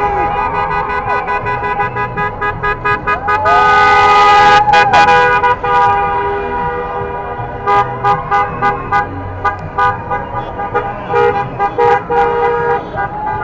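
Car horns honking repeatedly, several horns overlapping in short toots and longer held blasts, with the loudest long blast about four seconds in.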